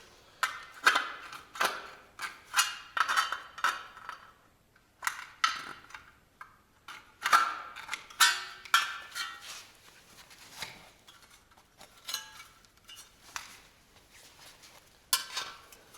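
Hand metal snips cutting a steel frame profile: a run of sharp metallic snips and crunches, each with a short ring. There is a pause about four seconds in, and the strokes come sparser in the second half.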